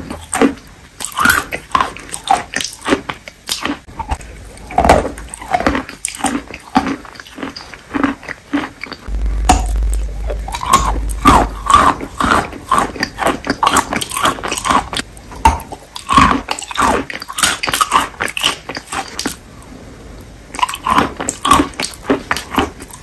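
Close-miked mouth sounds of chewing and squishing a wet, creamy clay-and-chalk paste: rapid sticky smacks, squelches and clicks, many a second.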